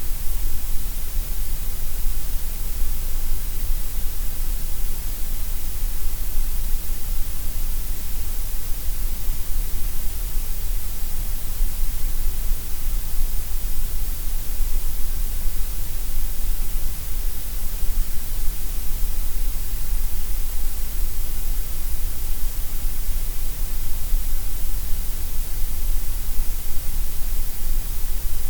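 Continuous gray noise: a steady, unchanging hiss, heavier in the deep rumble and the high hiss than in the middle.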